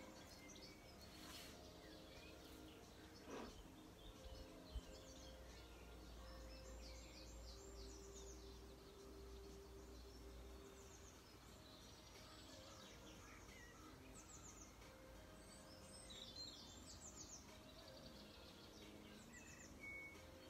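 Faint outdoor quiet with small birds chirping in short repeated twitters at intervals, over a faint low rumble through the first half.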